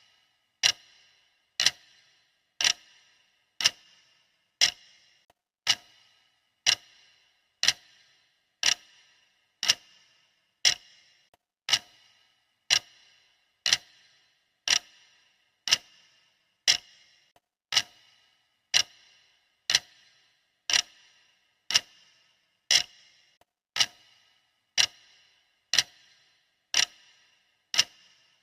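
Steady clock-ticking sound of a countdown timer: sharp ticks about twice a second, louder and softer in turn, like a tick-tock.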